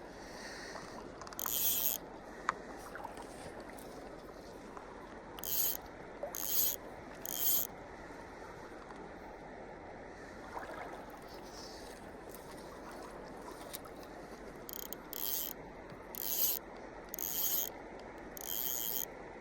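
Fly line rasping through the rod's guides in short high-pitched bursts, about nine of them in two clusters, over the steady rush of stream water.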